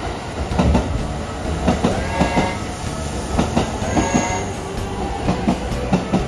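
Electric train passing, its wheels clicking over rail joints in paired clicks about once a second over a steady rumble.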